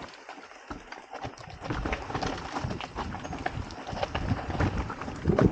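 Mountain bike rattling and knocking over a rough trail, with dense irregular clicks and thuds from the tyres and frame over rocks and roots. It is lighter for the first second or so, then grows louder and busier.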